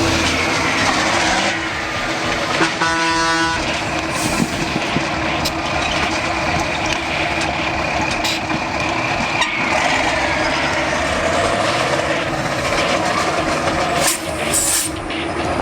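Steyr trial truck's engine running hard over rough ground, its pitch falling away as the revs drop. A horn sounds briefly about three seconds in.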